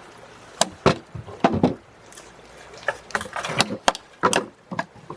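Irregular sharp knocks on wood, about ten in a few seconds, from timber being worked during repair of a wooden bridge.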